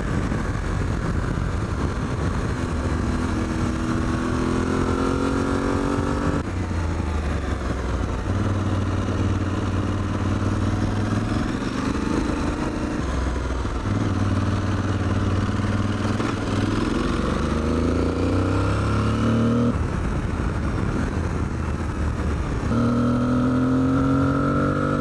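Aprilia Tuareg 660's parallel-twin engine running as the motorcycle accelerates, with wind and road noise. The engine note climbs in pitch over several seconds and drops abruptly several times.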